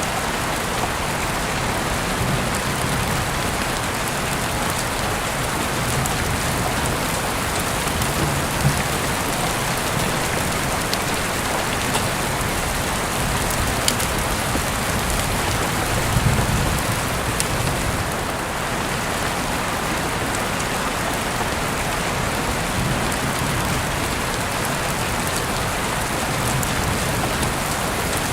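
Heavy rain falling steadily, a dense hiss with scattered sharper drop impacts. A brief low rumble comes a little past halfway.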